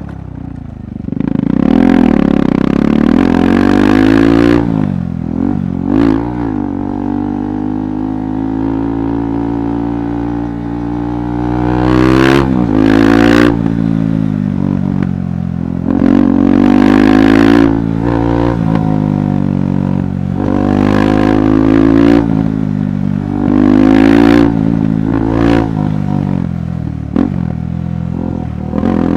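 KTM 390 Adventure's single-cylinder engine working over rough ground, revving up and easing off again and again as the throttle is opened and rolled back. There are a few sharp clatters and knocks along the way.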